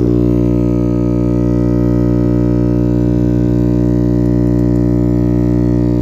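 Small guitar amplifier switched on with nothing playing, giving off a loud, steady hum: the faulty humming that the amplifier is being repaired for.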